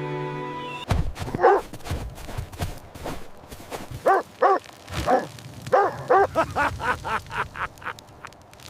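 A sheepdog barking again and again in short, sharp barks that quicken into a rapid run about six seconds in.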